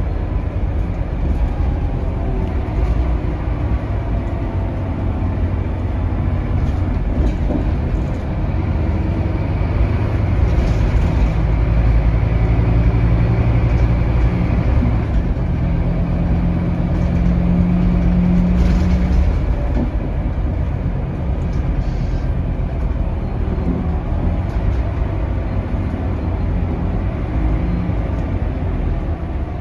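A Scania DC9 five-cylinder diesel bus engine and drivetrain heard from inside the bus, with a steady low rumble of road and engine noise. The engine note climbs in pitch from about ten seconds in, then falls away just before twenty seconds.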